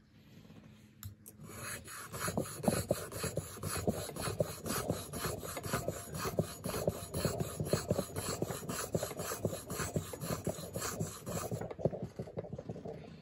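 Knife blade of a Leatherman PST multitool being stroked back and forth on a sharpening stone: a steady run of quick scraping strokes, about three a second, that starts a second or so in and stops shortly before the end.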